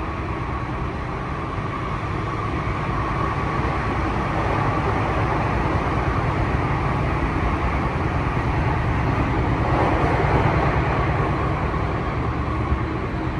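Interior running noise of a Tokyu 3020 series electric train under way: a steady rumble and rolling noise of wheels on rail. It swells a little about ten seconds in and eases near the end, with a faint high tone fading out in the first few seconds.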